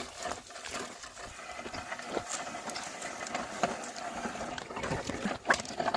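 Oxen ploughing a field: scattered soft knocks and scuffs of hooves and plough over a steady outdoor background, with one short high call about five and a half seconds in.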